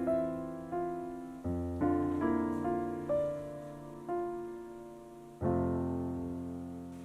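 Slow, gentle solo piano background music: single notes and chords struck a little under once a second and left to decay, with a deep bass chord about a second and a half in and another held to ring out over the last second and a half.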